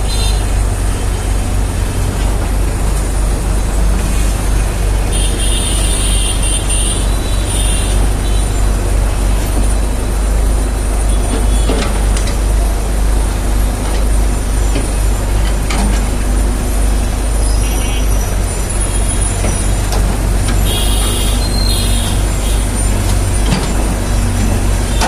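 Excavator's heavy diesel engine running loud and steady, with two short high-pitched bursts about five seconds in and about twenty-one seconds in.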